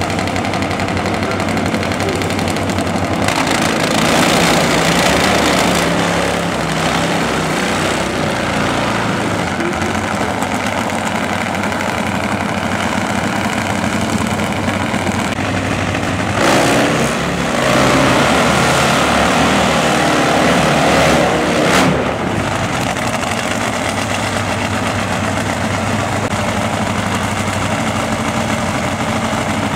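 Drag-racing motorcycle engines running at the starting line, mostly idling. They get louder for a couple of seconds about four seconds in, and again from about sixteen to twenty-two seconds, when they rev up.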